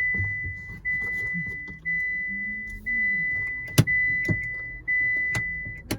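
Car dashboard warning chime sounding six times, about once a second, each a single high tone that fades slightly. Two sharp clicks come about four and five and a half seconds in.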